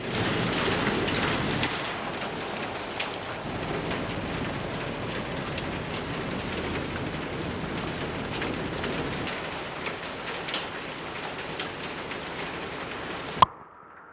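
Rain falling steadily, a dense hiss dotted with the ticks of single drops, a little louder in the first two seconds. Near the end a sharp click, after which the sound drops suddenly to a much quieter hiss.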